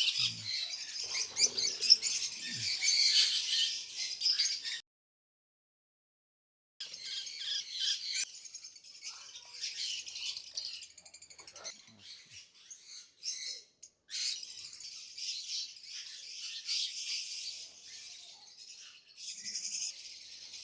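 A flock of caged lovebirds chattering with rapid, high-pitched chirps and squawks. The sound cuts out completely for about two seconds a few seconds in, then the chatter resumes.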